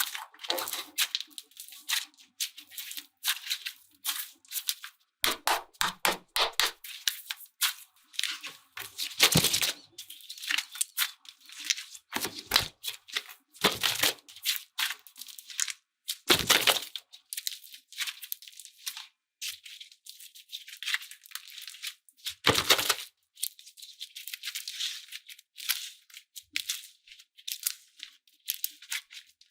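Slime being squeezed and pressed by hand, giving an irregular run of crackles, clicks and small pops, with a few louder crunches about nine, fourteen, sixteen and twenty-two seconds in.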